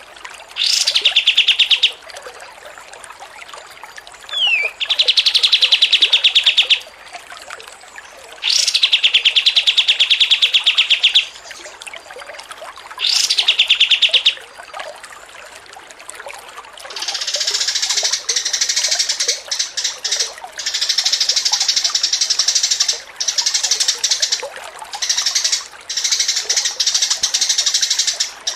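Songbird song: a fast, buzzy trill lasting about two seconds, repeated four times with pauses between, several of them opening with a quick upward sweep. In the last third this gives way to a denser, higher run of chattering song broken by short gaps.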